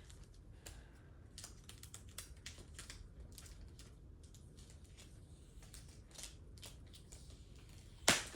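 Plastic packaging crinkling with many small scattered clicks and ticks as a comic book blind bag is opened and the bagged comic handled, with one louder, sharper crackle near the end.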